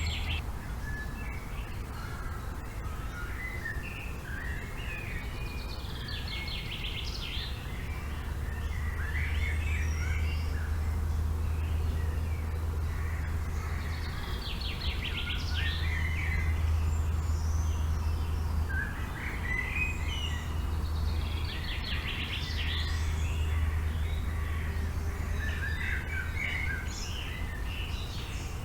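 Several birds singing and calling in a forest, with repeated short trills and chirps, over a steady low rumble.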